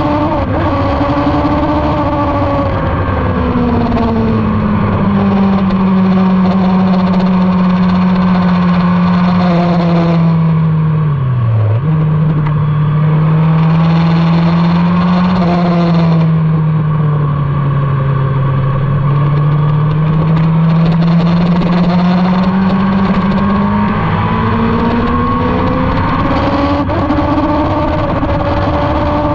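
Motorcycle engine running on track, with wind rushing past. The engine note falls slowly, drops sharply for a moment about eleven seconds in, and climbs again towards the end as the throttle is opened.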